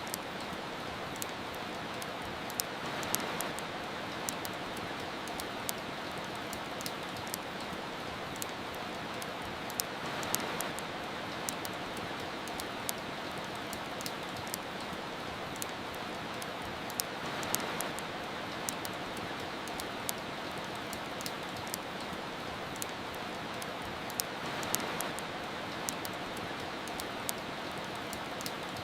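Steady rain with a wood fire crackling over it, sharp little pops scattered all through. The rain swells slightly about every seven seconds.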